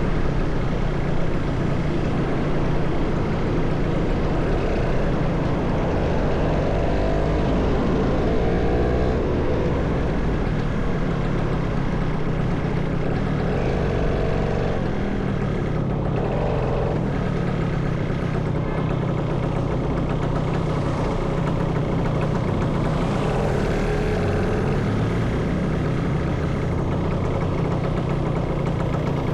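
Motorcycle engine running steadily under way, with road and traffic noise, its pitch rising and falling a few times as it speeds up and slows.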